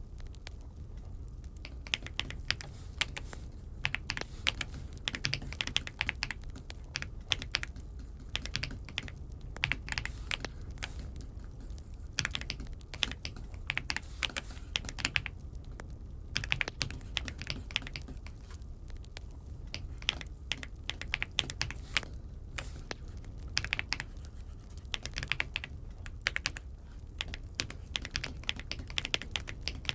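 Aula F75 mechanical keyboard being typed on: irregular runs of keystrokes with short pauses, starting about two seconds in, over a low steady hum.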